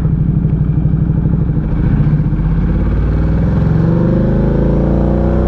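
Ducati Diavel 1260's 1262 cc V-twin engine under way, pulsing evenly at low revs, then rising steadily in pitch from about halfway through as the bike accelerates.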